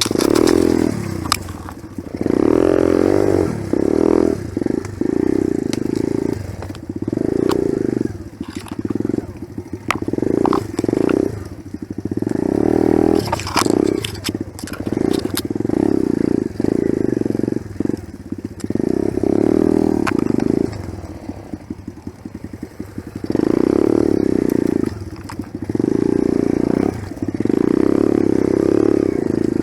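Enduro dirt bike engine pulsing as the throttle is opened and closed again and again while riding rough ground, each pull lasting a second or two, with clattering knocks throughout.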